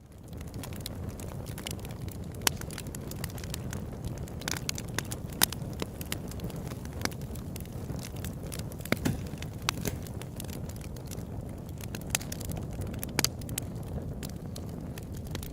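Open-air wood campfire burning: a steady low rush of flames with sharp crackles and pops throughout, a handful of them much louder. The sound swells up from silence right at the start.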